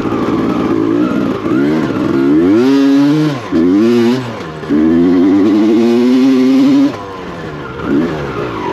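Motorcycle engine under hard acceleration: the revs climb and drop a few times, then hold high and steady for about two seconds before easing off.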